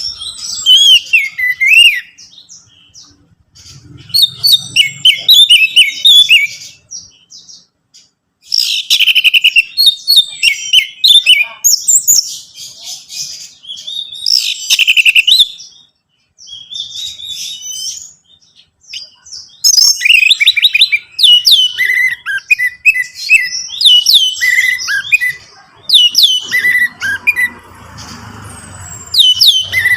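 Orange-headed thrush singing in fast, varied phrases of high whistles and trills, separated by short pauses, with the singing becoming nearly continuous in the last third.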